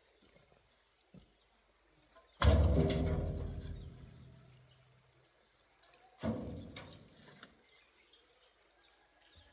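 Faint bird chirps over a quiet background, broken by two sudden loud noises, one about two and a half seconds in and a weaker one about six seconds in, each fading away over a second or two.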